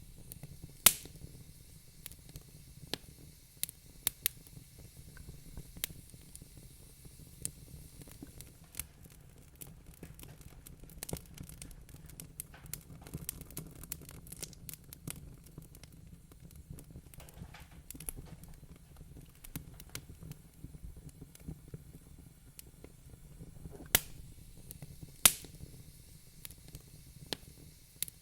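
Wood fire in a fireplace crackling, with irregular small snaps and a few louder pops about a second in and twice near the end, over a steady low rumble.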